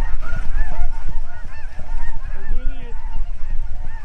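A large flock of snow geese calling: many overlapping short, high honks in a continuous chorus over a low steady rumble.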